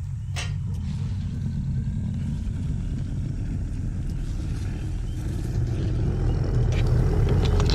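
A steady low rumble that slowly grows louder, with a faint higher tone coming in near the end.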